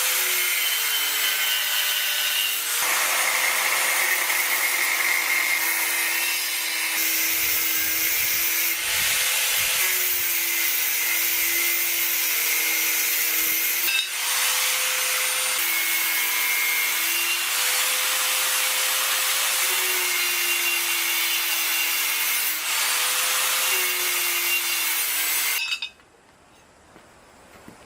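Electric power grinder working on metal, its motor pitch dipping and recovering as it is pressed into the work, then stopping abruptly near the end.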